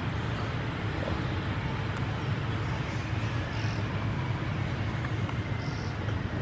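Steady low rumble with hiss, outdoor background noise with no distinct event.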